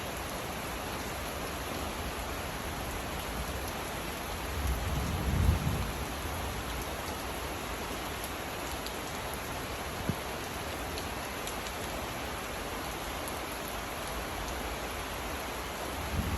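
Steady rain falling, with a low rumble of thunder about five seconds in and another starting near the end.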